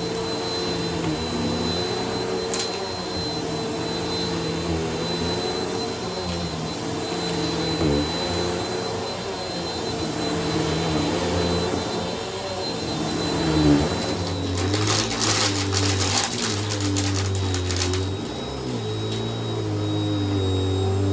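Bissell vacuum cleaner running over a shag rug: a steady motor drone whose pitch wavers as it is pushed, with a thin high whine. About two-thirds of the way in, a few seconds of dense rattling clicks, as of crunchy debris being sucked up.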